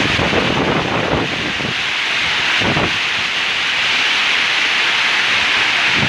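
Heavy rain pouring down as a loud, steady hiss, with gusts of wind buffeting the microphone during the first second or so and again briefly near the three-second mark.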